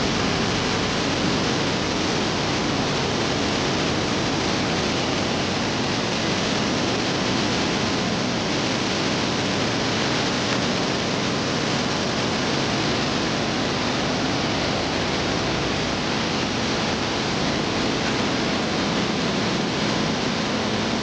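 Fast river water rushing below, a steady unbroken rush of white water.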